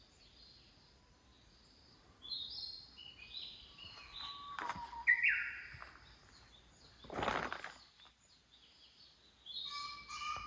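Wild birds chirping and calling, a string of short high chirps. Two brief rushes of noise cut across them, about halfway through and again about seven seconds in.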